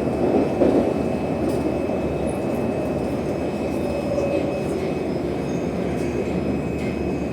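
Moscow Metro train running between stations, heard from inside the car: a steady rumble of wheels on rail and running gear, with a thin, steady high tone above it.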